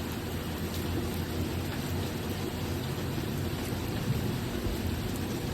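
Steady rain falling during a thunderstorm, with a low rumble of thunder underneath.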